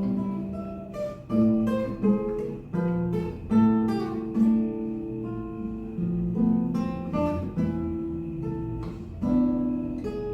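Acoustic guitar playing an instrumental accompaniment passage of plucked chords and single notes, each struck sharply and left to ring and fade.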